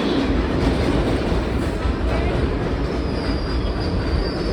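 New York City Subway train running, heard from inside the car: a steady rumble of wheels on track, with a thin, high wheel squeal setting in about three seconds in.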